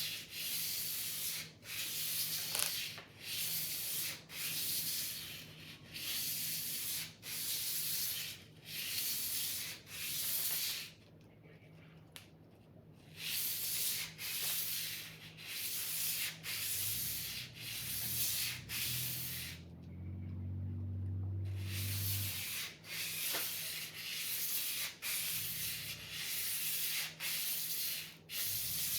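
A sword blade being sharpened by hand: rhythmic abrasive strokes, about three every two seconds, with two short pauses about eleven and twenty seconds in. A low hum comes up briefly around the second pause.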